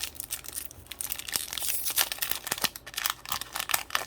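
Foil wrapper of a Pokémon card booster pack crinkling and tearing as it is opened: an irregular run of crisp crackles.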